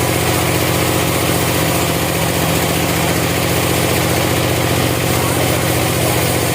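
An engine running steadily at constant speed, with a fast, even pulse and no change in pace.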